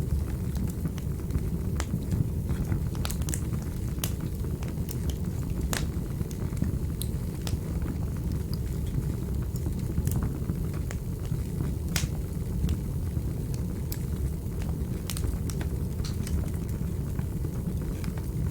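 Fireplace fire burning, a steady low rumble of flames with sharp, irregular crackles and pops.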